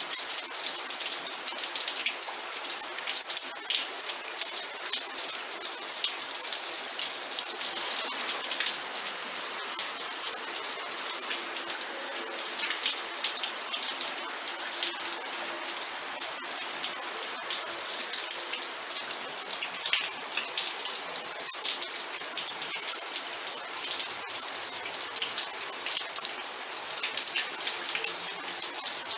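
Steady rain: a dense, even hiss of many drops hitting a surface, with countless small, sharp drop impacts.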